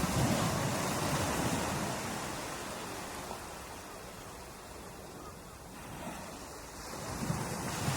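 Ocean surf: a wave breaks near the start and its wash slowly dies away, then the next wave swells up near the end.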